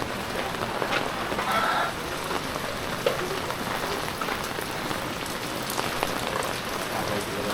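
Heavy typhoon rain falling steadily on surfaces, with scattered drip taps.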